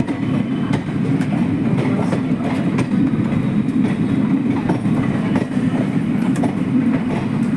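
Train rolling along the track: a steady low rumble with a scatter of sharp clicks from the wheels over the rails.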